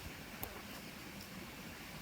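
Faint, steady outdoor ambience with a single sharp click about half a second in.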